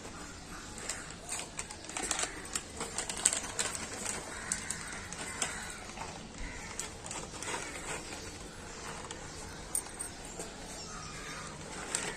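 A cat eating Pedigree food: irregular small clicks and crunches of chewing, busiest from about two to five seconds in.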